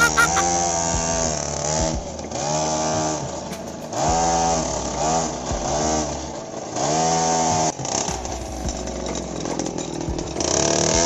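Small engine of a homemade mini tractor running, its revs rising and dropping back over and over every second or two.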